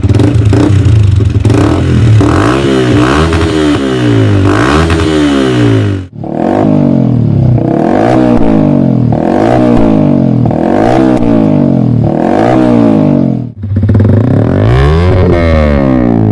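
Yamaha YZF-R15 V4's single-cylinder engine revved repeatedly through aftermarket exhausts, the revs rising and falling about once a second. The sound cuts abruptly to a different clip about six seconds in and again about thirteen and a half seconds in.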